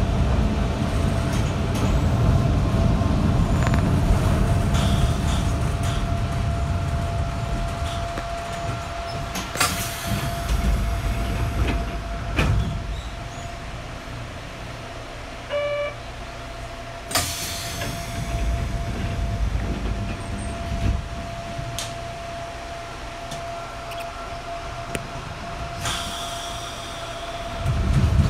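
Inside a Sanshin Railway Hokusei Line 270-series narrow-gauge train: the running noise is a loud low rumble at first and dies down to a quiet stretch, as if the train slows almost to a stop, with a faint steady hum throughout and a few sharp knocks. A short electronic beep sounds about halfway through, and the running rumble rises again near the end.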